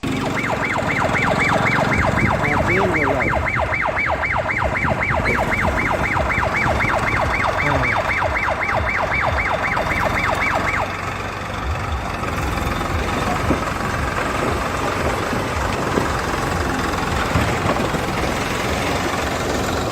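A siren-like warbling tone, rising and falling about four times a second, sounds over a running vehicle engine and stops about eleven seconds in. The engine keeps running after it, with occasional knocks.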